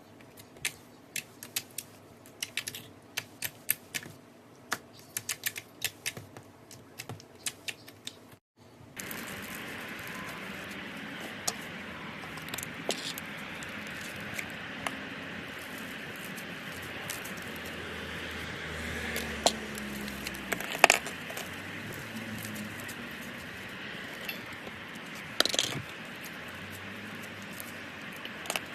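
Slime being squeezed and stretched by hand: a quick run of sharp clicks and pops. Then, after a cut, a steady hiss with occasional louder pops.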